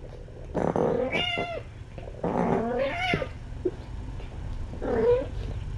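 A cat meowing: three drawn-out calls that bend in pitch, the last one shorter.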